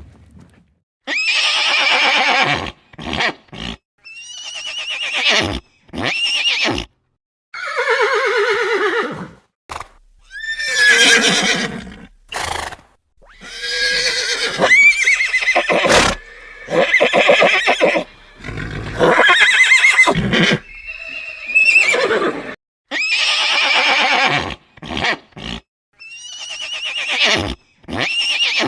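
Horse neighing over and over: about a dozen whinnies, each one to two seconds long with a wavering, shaking pitch, separated by short silences.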